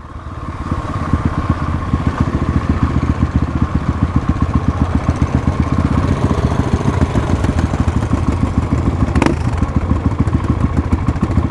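Motorcycle engine running at low speed with a rapid, even firing beat, picking up in the first second. One sharp knock about nine seconds in.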